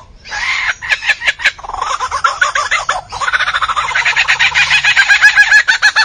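A large bird singing a loud, varied song: a few sharp clicks about a second in, then fast runs of rapidly repeated notes that grow louder toward the end.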